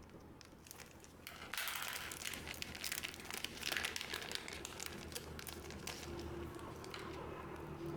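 Plastic foil wrapper of a trading card booster pack crinkling as it is handled, busiest for a few seconds in the middle.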